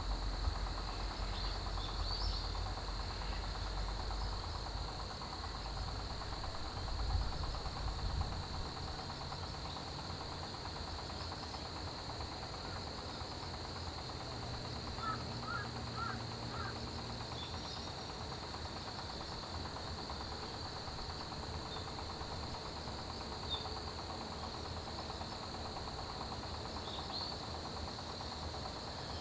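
A steady, high-pitched chorus of autumn crickets and other grass insects chirring without a break. A low rumble sits under it for the first several seconds, and a few short chirps come about halfway through.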